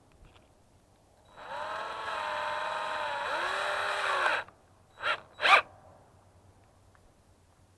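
Electric drill with a small bit running for about three seconds, its motor whine dipping in pitch and picking up again, then two short blips of the trigger. It is drilling a small hole in a CV axle's rubber boot.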